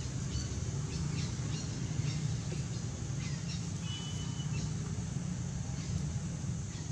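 Scattered short, high bird chirps and a brief whistle about four seconds in, over a steady low rumble.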